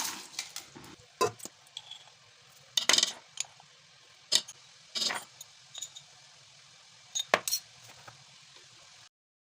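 Kitchenware clinking and knocking: scattered, irregular clinks of utensils against dishes or a pot, with a few louder knocks, before the sound cuts off abruptly near the end.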